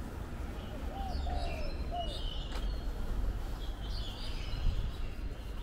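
Birds chirping in short high calls over a steady low rumble of city background noise.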